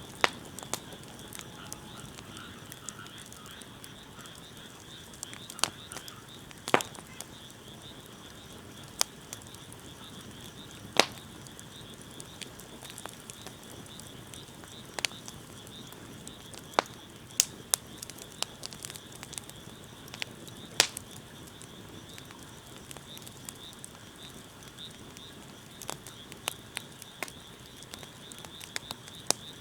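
Wood fire burning, with sharp pops and snaps every second or two, over a steady high-pitched chirring.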